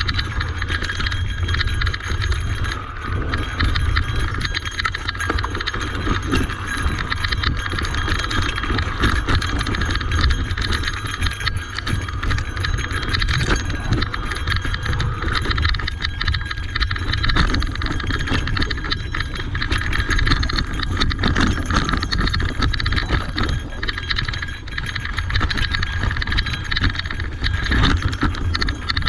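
Electric mountain bike ridden over a rough dirt trail: tyres rolling and the bike rattling and clattering over rocks and ruts in quick, uneven knocks, over a steady low rumble of wind on the microphone.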